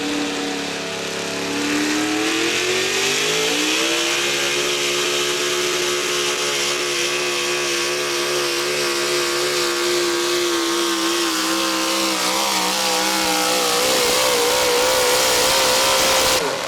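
Modified 4x4 pulling truck's engine at high revs during a pull: the pitch climbs over the first few seconds, holds high and steady, then wavers and drops slightly near the end before the sound cuts off suddenly.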